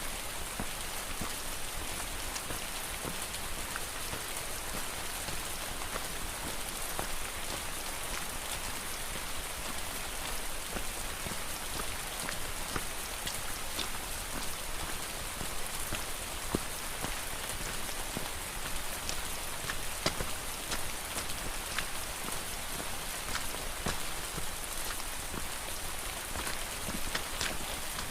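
Steady rain falling, with many scattered single drops landing sharply among the steady hiss.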